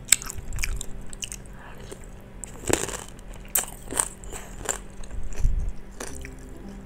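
Wet mouth sounds of chewing and biting bakso meatballs in broth, with a string of sharp clicks, some from the wooden spoon against the ceramic bowl.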